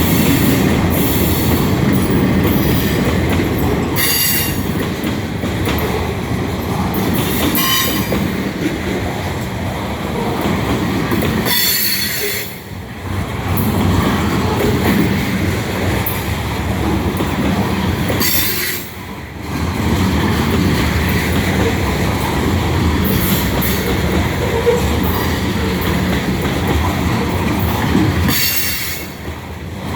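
Cars of a long train rolling past as it slows to a stop, with a steady rumble and clatter of wheels on rail. Short high squeals from the wheels come and go every few seconds.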